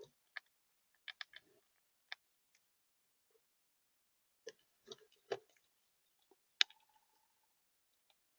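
Scattered sharp taps and clicks at irregular intervals, a few close together, from birds pecking and landing on a bird feeder close to the microphone.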